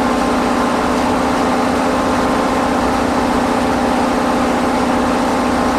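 Heavy machinery running steadily: a constant multi-tone hum with an even hiss over it, unchanging throughout.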